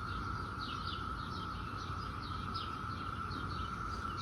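A distant chorus of periodical cicadas makes a steady high drone, with birds chirping over it in many short, quick calls.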